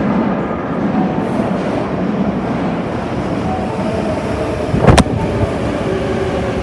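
Hankyu 8300 series electric train running into the platform at speed, a steady rush of wheels and motors on the rails. One sharp, loud thump about five seconds in.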